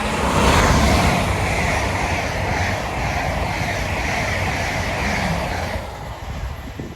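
A train passing close at speed on the main line: a loud rush of wheel and air noise that swells within the first second, holds for about six seconds, then fades away.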